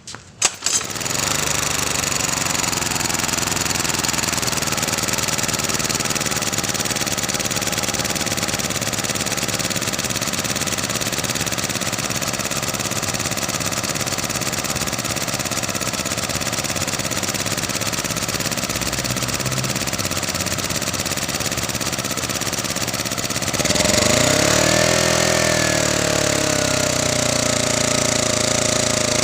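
Honda portable generator's small engine catching right after a few sharp clicks and then running steadily. About 24 seconds in it speeds up, its pitch swings up and down once, and it settles at a steady higher speed.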